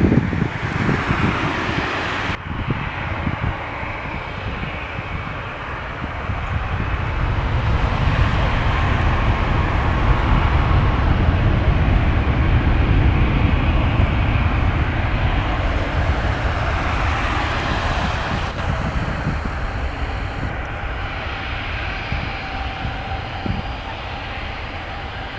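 Jet engines of a Ryanair Boeing 737-8200 MAX (CFM LEAP-1B turbofans) at takeoff power: a loud, deep rumble that builds to a peak near the middle and then slowly fades away.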